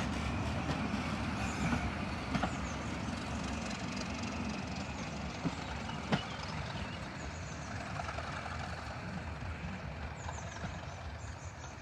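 Class 37 diesel locomotive's English Electric V12 engine running as it pulls away, a low rumble slowly fading, with a few sharp clicks along the way.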